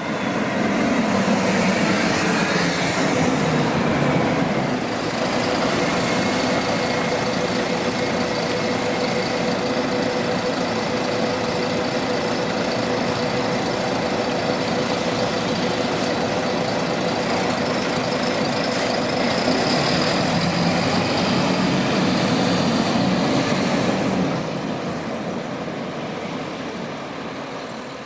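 Tram running close by with a steady rumble and a held whine, dying away about 24 seconds in.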